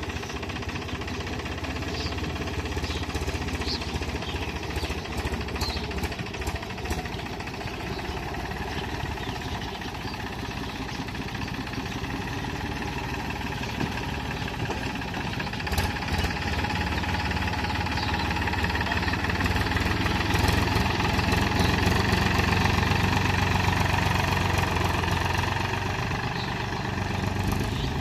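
Powertrac Euro 50 tractor's diesel engine running steadily while working a cultivator, growing louder a little past the middle.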